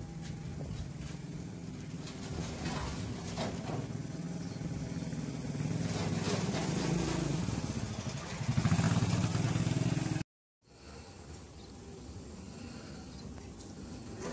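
Engine of a rice combine harvester running steadily, working harder and louder about nine seconds in. It cuts off abruptly for a moment about ten seconds in and comes back quieter.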